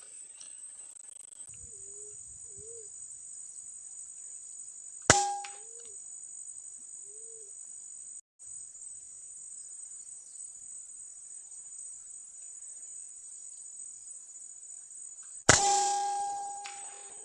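Steady high-pitched drone of insects in the tree canopy, broken twice by a sharp air rifle shot, about five seconds in and again near the end, each with a brief ringing tone after it. A few faint low calls are heard between the shots.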